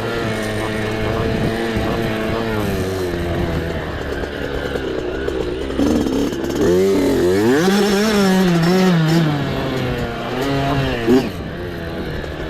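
Small mini bike engine running under throttle, its pitch rising and falling as the rider gets on and off the gas, with a strong climb in revs about seven seconds in that eases off again.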